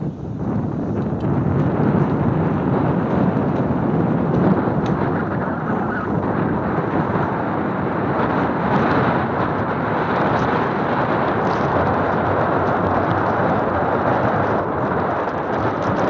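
Strong wind buffeting the microphone: a loud, steady, rough rushing that jumps up in level right at the start and then holds.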